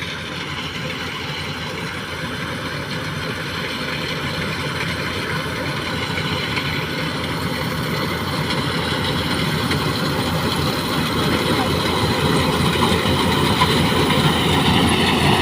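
Rice combine harvester running steadily, its engine and machinery making a dense mechanical noise that grows steadily louder throughout.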